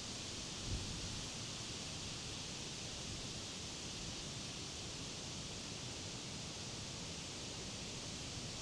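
Wind moving through the leaves of tall trees, a steady even rustling hiss. A brief low thump less than a second in.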